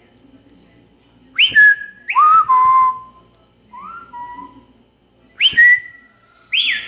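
A rose-ringed parakeet whistling a series of about six short notes. Each note swoops down sharply and then holds a steady pitch; some are high and some sit lower.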